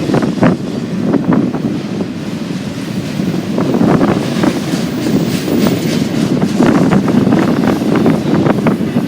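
Freight train cars rolling past, a steady rumble broken by repeated sharp wheel clicks, with wind buffeting the microphone.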